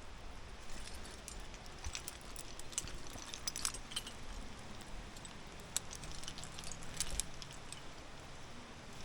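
Metal climbing hardware (carabiners and gear racked on a harness) clinking and jingling in a run of light, irregular clicks, strongest near the middle, as it is handled.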